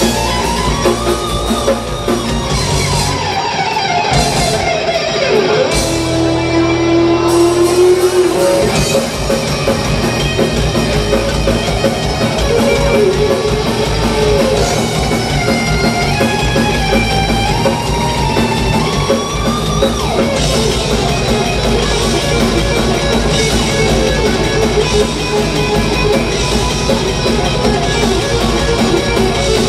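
Live heavy metal band playing an instrumental passage: a lead electric guitar with bending, gliding notes over distorted rhythm guitar, bass and drum kit.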